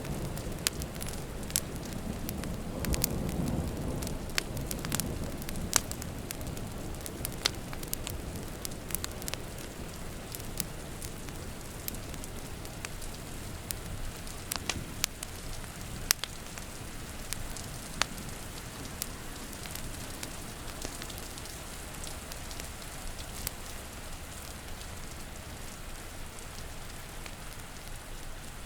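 Wood fire crackling with frequent sharp pops, over a steady hiss of rain. A low rumble of distant thunder swells and fades a few seconds in.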